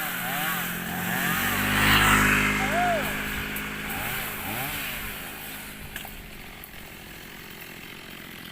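Chainsaw engine running, its pitch rising and falling again and again as it is revved, loudest about two seconds in.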